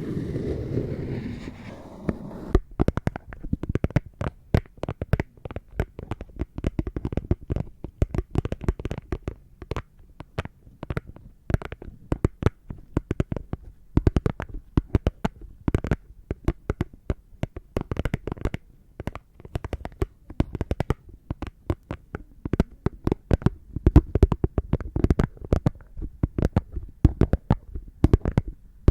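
Plastic lids tapped and clicked by hand close to the microphone: a fast, irregular run of small sharp clicks and taps. The first couple of seconds are softer rubbing and handling.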